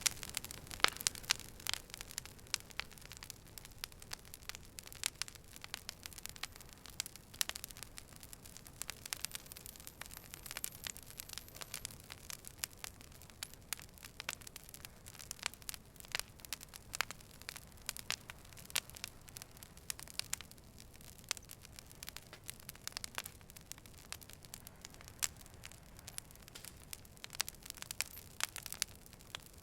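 Wood fire burning, with frequent irregular sharp crackles and pops over a soft low hiss.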